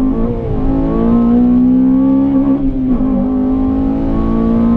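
Honda Civic Type R FN2's 2.0-litre K20 four-cylinder engine accelerating, heard from inside the cabin: its pitch climbs steadily, dips briefly about three seconds in, then climbs again.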